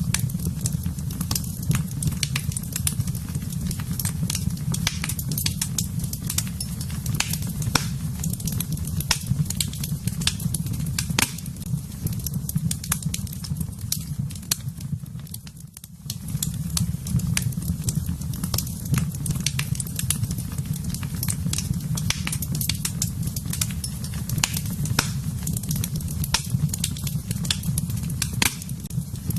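Wood fire burning in a fireplace: a steady low rumble of flames with frequent sharp crackles and pops from the burning wood. The rumble briefly drops away a little past halfway, then returns.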